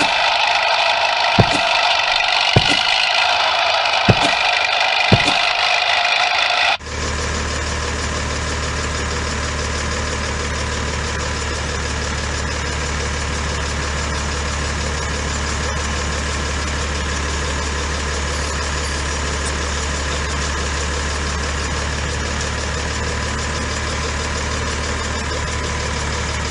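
A whirring hiss with a sharp click about once a second switches suddenly, about seven seconds in, to a heavy vehicle engine idling steadily with a deep hum.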